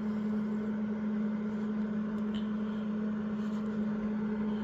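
A power tool's electric motor running at a steady speed, giving an even hum of one pitch.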